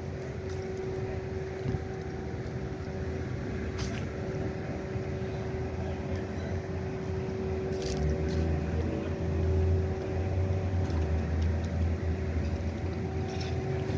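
Motor vehicle engine running with a steady hum; its low rumble grows louder about eight seconds in, with a couple of short clicks.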